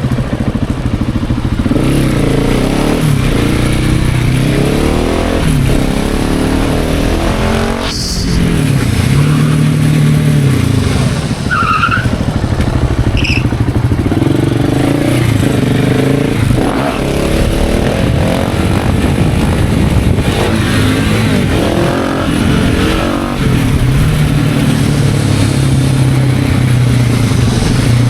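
KTM 690 SMC R supermoto's single-cylinder engine through a PowerParts aftermarket exhaust, pulling hard and easing off over and over, its pitch rising and dropping repeatedly.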